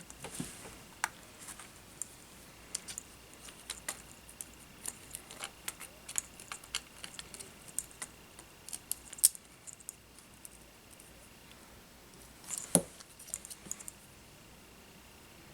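Small tools and drone parts being handled on a workbench: a scatter of light clicks, taps and metallic rattles, with a louder knock about thirteen seconds in. A faint steady high whine runs underneath and stops about three-quarters of the way through.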